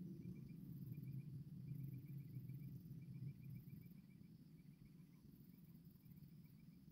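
Near silence: faint, rapid chirps in short runs, like insects calling, over a low rumble.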